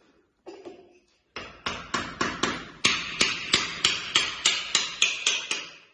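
Hammer blows in a steady run of about fifteen sharp strikes, roughly three a second, starting about a second and a half in and stopping just before the end.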